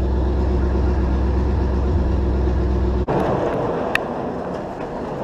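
Car engine running steadily, warming up shortly after a choked start, until about three seconds in, when the engine sound cuts off abruptly; a steady lower noise follows, with one short click about a second later.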